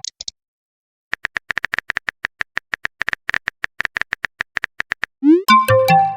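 Rapid clicks of a phone keyboard typing sound, about six a second for some four seconds, followed near the end by a rising swoop and a short bright chime of a messenger message alert.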